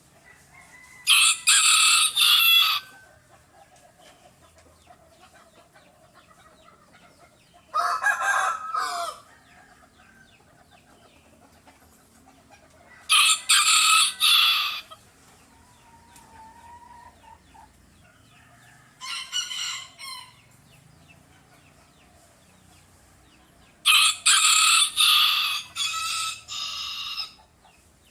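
Roosters crowing: five loud crows spaced a few seconds apart, each lasting one to three seconds, with faint clucking in between.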